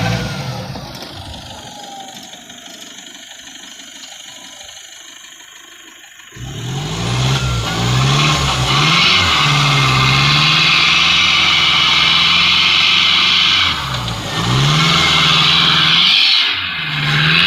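Pickup truck engine under hard throttle on a steep, slippery hill climb. A rev dies away over the first few seconds, then about six seconds in the engine revs up loud and keeps swinging up and down in pitch, with a strong hiss over it.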